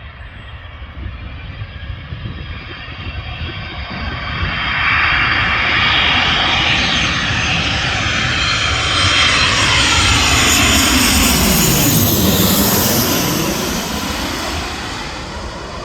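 Boeing 737 jet engines on landing approach, passing close: the jet noise builds about four seconds in, stays loud with a sweeping whoosh as the airliner goes by, then fades as it moves away.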